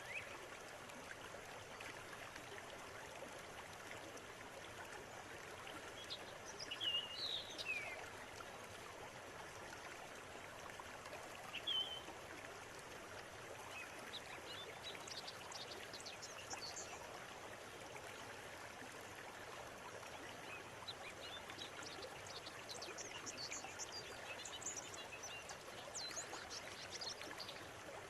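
Clear river water running steadily, with birds calling over it: a few falling calls about seven seconds in and another near twelve, then clusters of quick high chirps later on.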